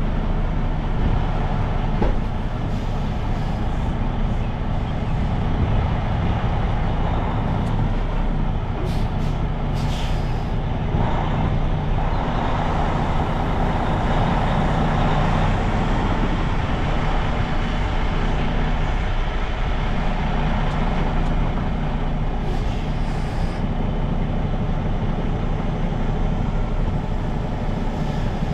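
Semi-truck diesel engine running steadily at low speed during a slow reversing maneuver, with short bursts of air-brake hiss about nine to ten seconds in and again around twenty-three seconds.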